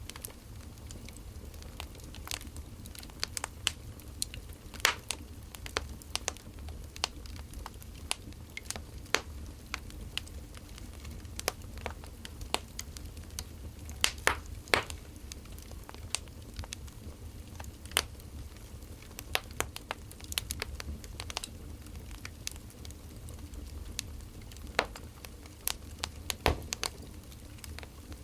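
Wood fire crackling: irregular sharp pops and snaps, several a second at times, over a steady low hum.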